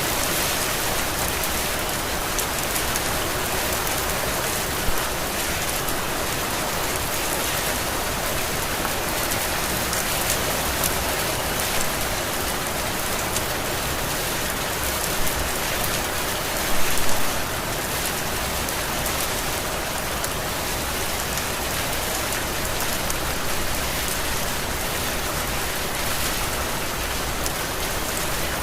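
Heavy rain falling steadily in a dense, even hiss, with a few louder drops or splashes standing out briefly and a short cluster of them about two-thirds of the way through.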